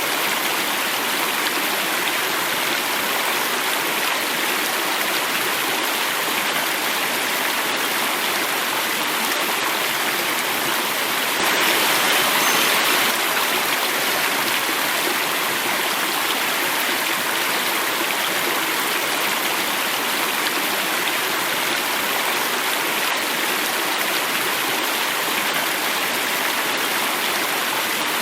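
Running water flowing and falling, a steady even rush that swells slightly for a moment about twelve seconds in.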